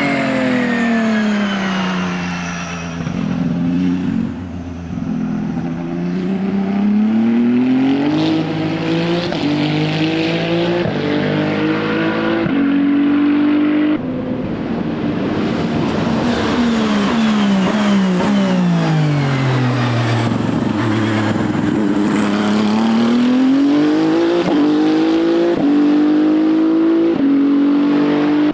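Ferrari 499P hypercar's twin-turbo V6 racing engine, twice dropping in pitch as it slows and then pulling hard with rising revs, broken by quick sequential gear changes.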